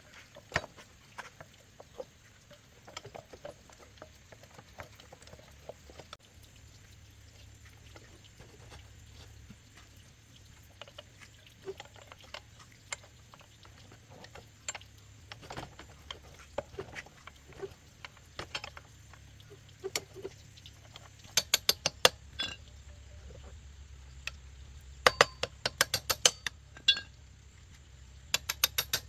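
Scattered small clicks and knocks, with three runs of quick sharp taps in the second half, over a low steady hum that comes in a few seconds in.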